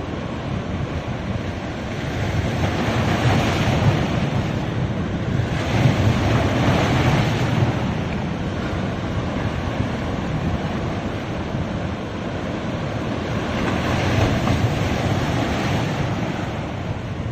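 Sea waves breaking on a beach, the surf swelling louder three times as waves come in, over a constant wash.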